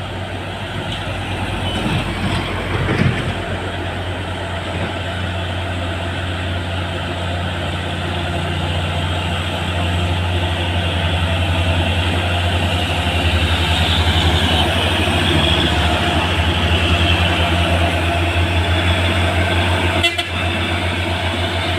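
Heavy diesel truck engine running under load, a steady low drone that grows gradually louder and dips briefly near the end.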